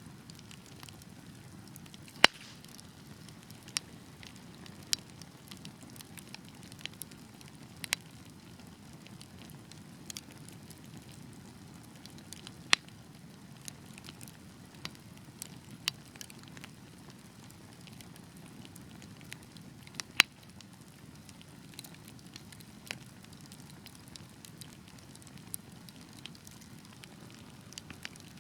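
Wood fire burning with a steady low hiss and irregular sharp crackles and pops, a few of them much louder than the rest.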